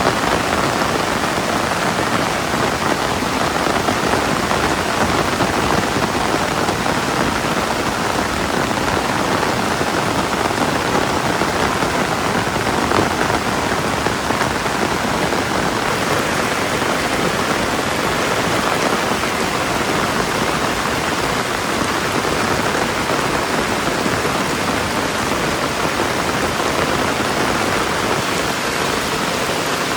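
Steady rain falling and pattering on surfaces, a constant even hiss with no let-up.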